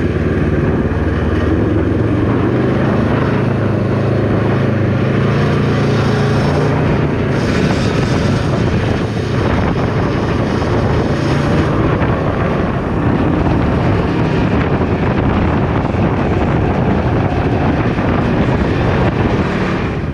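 Can-Am Ryker 600's twin-cylinder engine running steadily while riding, under heavy wind rush on the microphone.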